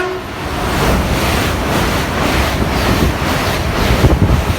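LNER Azuma high-speed train running through the station at speed: a loud steady rush of air and wheel noise with a regular beat about three times a second as the coaches go by, the wind of its passing buffeting the microphone. The last note of its horn ends right at the start.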